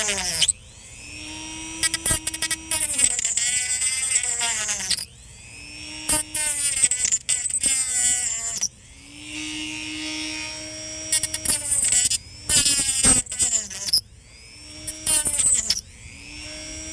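Small high-speed handheld rotary cutting tool cutting into a dried gourd shell. It runs in several bursts of a few seconds, its whine rising as it spins up and falling away each time it stops.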